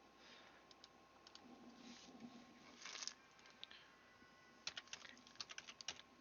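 Faint typing on a computer keyboard: a few scattered key clicks, then a quick run of keystrokes near the end.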